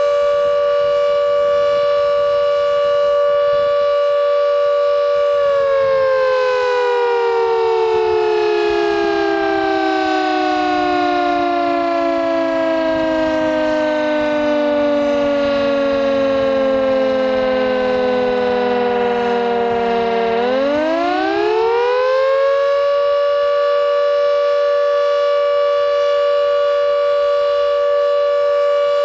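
Carter 1H motor-driven siren holding a steady two-note tone. About five seconds in, it winds down slowly in pitch for roughly fifteen seconds, then spins back up within a couple of seconds and holds steady again. This is one of the four interruptions in the continuous-tone flood warning signal.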